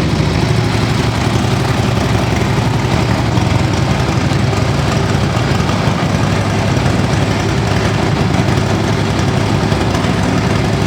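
2015 Harley-Davidson Street Glide Special's air-cooled Twin Cam 103 V-twin engine idling steadily.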